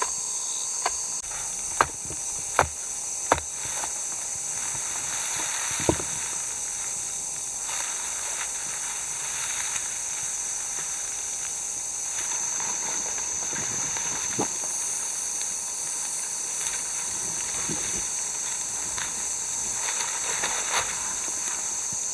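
Steady high-pitched hiss, with a few sharp knocks in the first six seconds.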